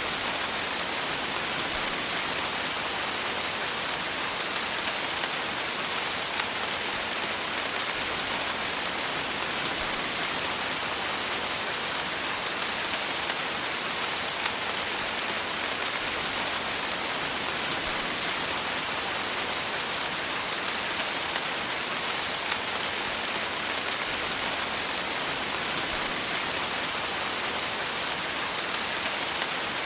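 Steady rain falling, an even hiss of many raindrops with no pauses.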